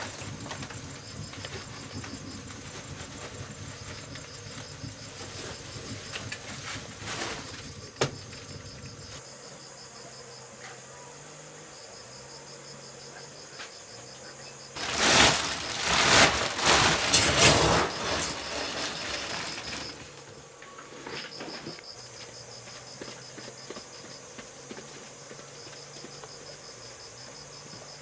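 Insects, cricket-like, chirping in a steady high pulsing trill. A sharp click comes about 8 seconds in. About halfway through, a loud rustling or scraping noise lasts roughly five seconds and drowns them out.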